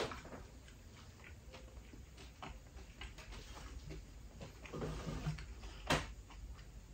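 Faint chewing of spinach-and-cheese pizza with the mouth closed, with small mouth clicks throughout and one sharper click about six seconds in.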